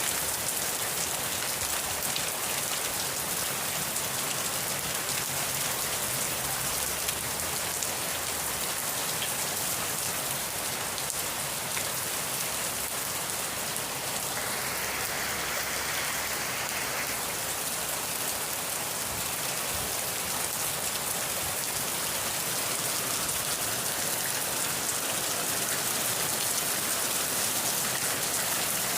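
Steady rain falling on a surface: an even, dense hiss of drops that swells slightly for a few seconds midway.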